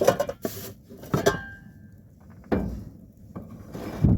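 Knocks and clatter of camp coffee gear being handled, one knock ringing briefly, with wind buffeting the microphone.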